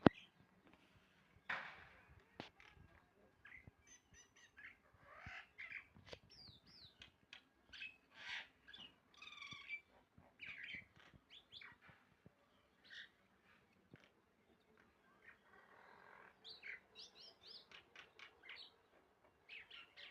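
Birds chirping: many short, high-pitched calls with quick rises and falls in pitch, coming in irregular clusters. A single sharp click comes right at the start.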